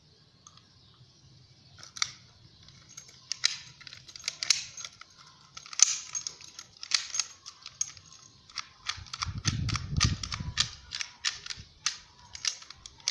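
Door mortise lock (كالون) being worked by hand after repair: many sharp metallic clicks and snaps of its latch and bolt mechanism, starting about two seconds in and coming faster later, with a low rumble of handling about two-thirds of the way through.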